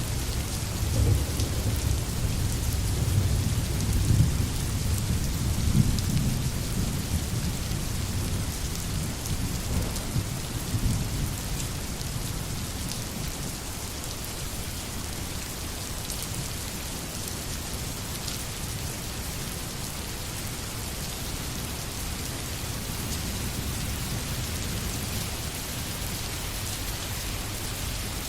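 Steady heavy rain hissing on the forest, with a low rolling rumble of thunder in the first half that fades away to leave the rain alone.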